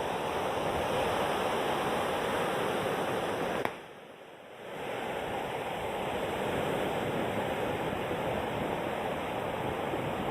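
Steady rushing noise of ocean surf along the shore. It drops away suddenly for about a second a little over a third of the way in, then returns.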